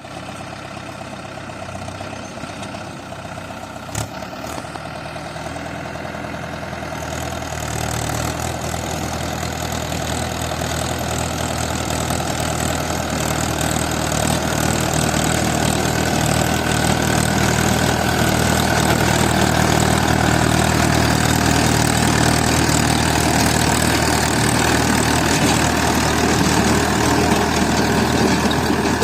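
Mahindra 575 DI tractor's four-cylinder diesel engine running steadily, growing louder through the first half and then holding level, with a single sharp click about four seconds in.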